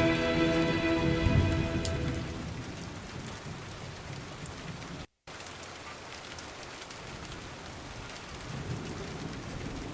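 Steady rain ambience, an even hiss of rain falling. The last notes of a song fade out over the first two seconds, and the sound cuts out completely for a moment about five seconds in.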